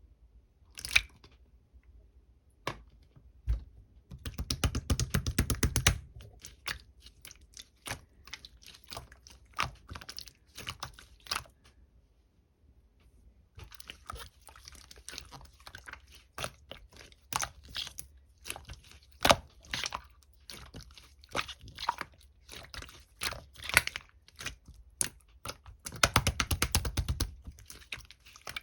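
Clear slime being handled by hand: irregular sticky clicks and pops, with two runs of rapid clicking, one about four seconds in and one near the end.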